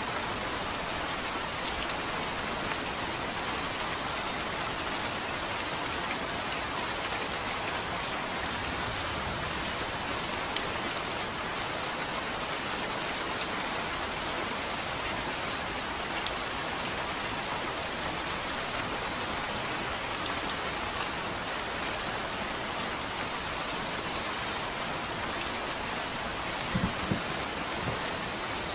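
Steady rain falling on a surface, an even hiss with scattered drop ticks. A few brief low thumps sound near the end.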